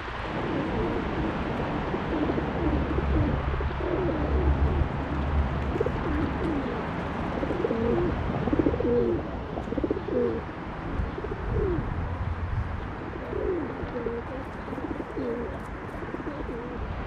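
Low bird calls, repeated many times and overlapping, over a steady low rumble.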